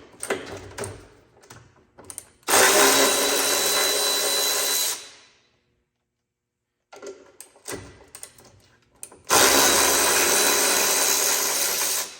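A handheld power tool's motor runs in two steady bursts of about two and a half seconds each, with a high whine, spinning fasteners off the machine. Small tool and metal clicks come before each burst.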